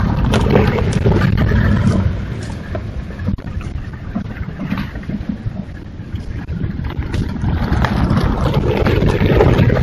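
A vehicle driving along a logging road, its engine and tyre noise picked up by a trail camera's microphone. It is loudest in the first two seconds and again near the end.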